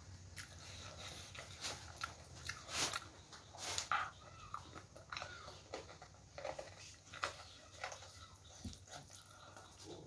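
Close-miked mouth sounds of a person chewing a mouthful of food eaten by hand: irregular wet smacks and clicks, loudest about three and four seconds in.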